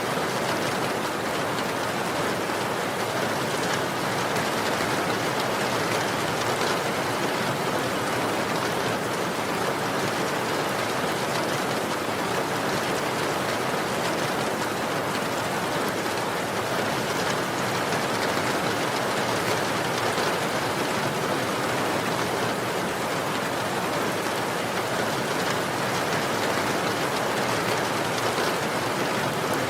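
Steady, even rain falling, a constant hiss with no distinct drops or breaks.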